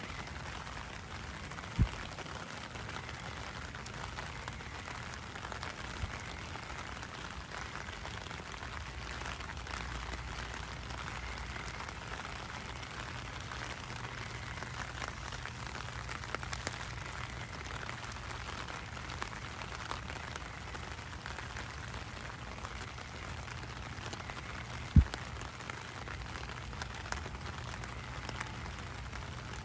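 Steady rain falling on wet pavement, an even hiss, with two short low thumps: one about two seconds in and a louder one near the end.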